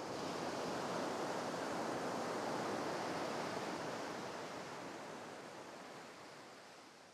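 Sea waves washing in, a rushing noise that swells over the first second and slowly dies away.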